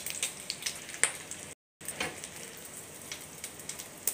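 Potato omelette frying in oil in a pan: a steady sizzle with scattered crackling pops. The sound cuts out completely for a moment about one and a half seconds in.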